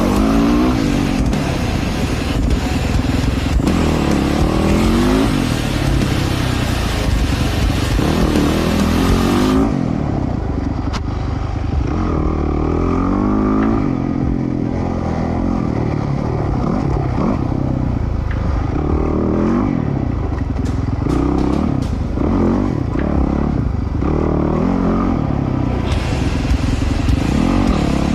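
Dirt bike engine revving up and down as it is ridden, its pitch rising and falling with each throttle change. The sound turns duller, losing its treble, from about ten seconds in until near the end.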